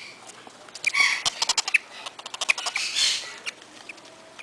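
Baby Quaker parrots and lovebirds chirping, with two runs of rapid sharp clicks, about a second in and again near three seconds.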